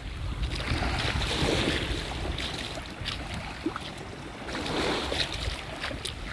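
Ocean surf washing onto the shore, swelling about a second in and again near five seconds, with wind rumbling on the phone's microphone.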